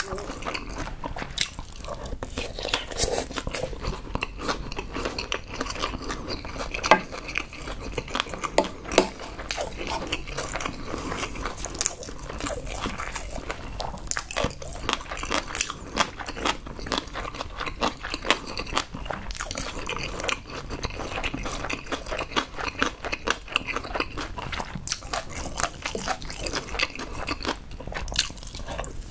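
Close-miked chewing of mouthfuls of Spam and egg rice: wet, smacking mouth sounds with many quick irregular clicks and no speech.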